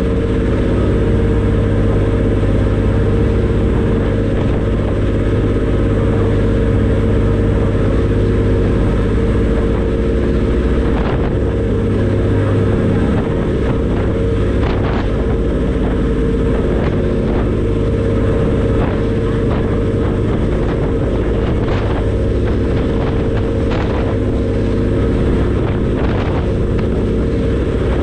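Ferry's diesel engines running steadily at cruising speed, a loud low drone with a steady hum, over wind and water noise, with short sharp knocks now and then in the second half.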